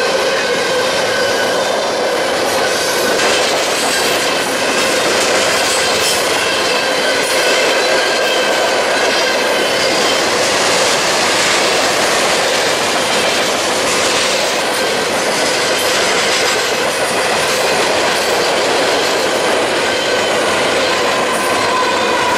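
Freight train hopper cars rolling past at track speed: a steady rumble of steel wheels on rail, with clacks over rail joints and a thin squeal from the wheels.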